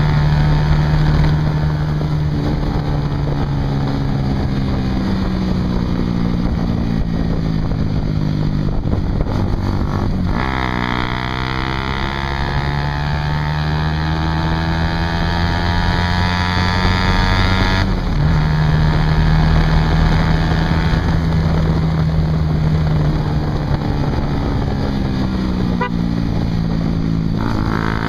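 Honda CBR150R's single-cylinder engine through an aftermarket Yoshimura exhaust, running under way. The pitch shifts abruptly about a third of the way in, again around two-thirds through and near the end, and climbs steadily in between, with wind noise on the mounted microphone.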